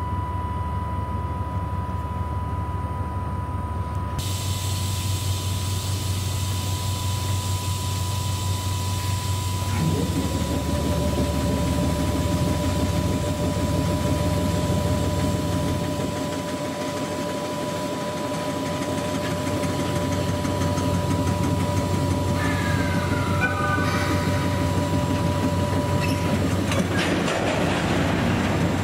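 Train sounds at a railway station: a steady high whine runs under a background of rail noise. About ten seconds in, a second tone rises quickly and then holds steady. Louder noise comes up near the end.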